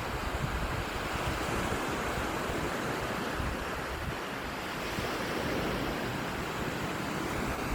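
Black Sea surf breaking and washing on the beach, a steady wash that swells and eases slowly, with wind rumbling on the microphone.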